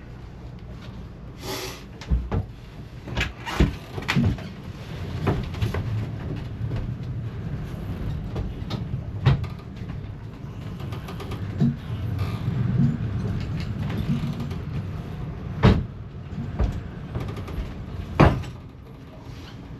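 Hand tools knocking and clanking on metal during work on a marine diesel's temperature sender, a dozen or so sharp knocks spread out, over a steady low hum.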